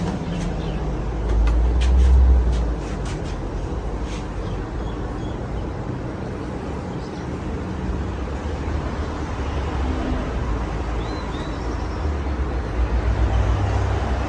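Hampton Bay Cameron II Plus ceiling fan running: a steady rushing noise with a low rumble that swells briefly about two seconds in and again near the end, and a few faint clicks in the first few seconds.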